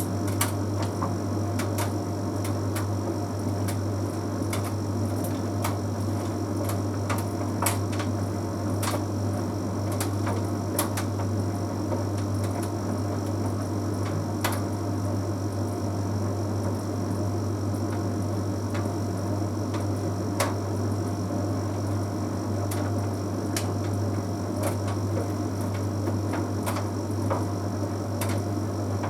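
Bosch Series 6 heat pump tumble dryer running mid-cycle: a steady low hum with irregular light clicks and taps as it runs.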